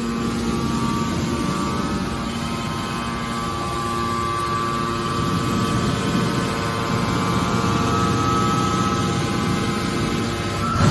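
Metal baler machinery running with a steady hum and a high whine that rises slightly in pitch near the end.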